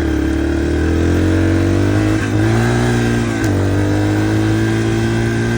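Dirt bike engine running steadily while riding. Its revs dip briefly about two seconds in and drop again about three and a half seconds in.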